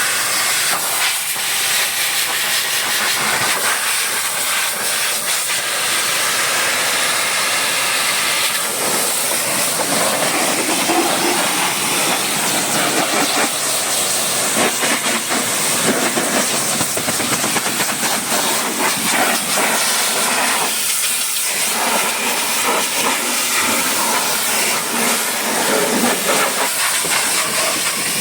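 High-pressure washer jet spraying water against a truck: a steady, loud hiss whose texture shifts now and then as the spray moves.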